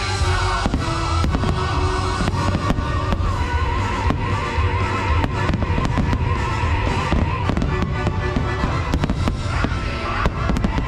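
Fireworks going off in quick, frequent bangs and crackles over the loud music of the fireworks show's soundtrack.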